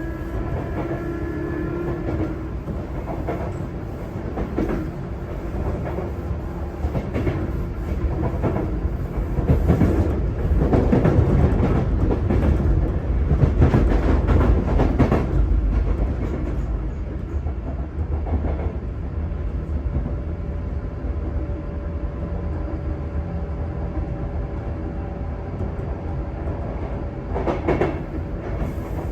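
Running sound inside a Sotetsu 8000 series electric train's motor car: a steady rumble of wheels on rail with repeated clicks over rail joints. It grows louder about a third of the way in and eases off again after about 16 seconds, when a steady hum comes through.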